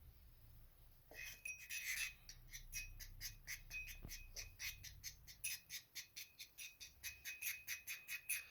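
A metal spoon clinking quickly against a small container, about four clinks a second with a short ring to each, as powdered chick food is stirred into hot water. It starts about a second in.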